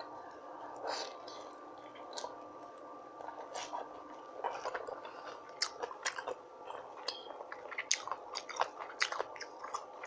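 A person chewing rotisserie chicken, with wet smacking and clicking mouth sounds that grow busier about halfway through.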